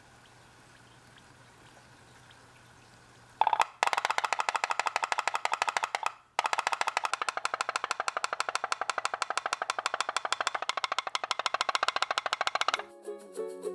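Homemade putt-putt boat's steam engine running: a rapid, even popping, about ten pops a second, that starts about three and a half seconds in after a faint hum and stops briefly once. Plucked-string music comes in near the end.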